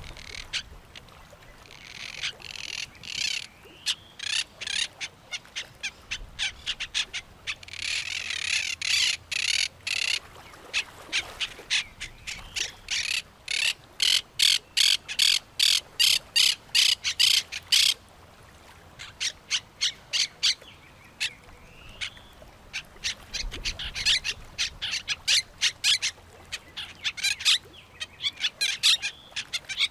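Birds calling, with runs of sharp, harsh calls repeated about two or three times a second and a stretch of denser chattering about a third of the way in; the calls thin out for a few seconds around two thirds through.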